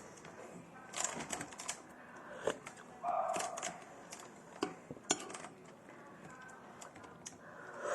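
A spoon clicking and tapping against a bowl in a run of irregular sharp clicks, with a short, louder noisy sound about three seconds in.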